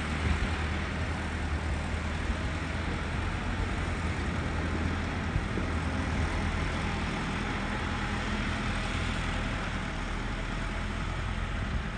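Tractor engine running steadily, a low even hum with no change in speed.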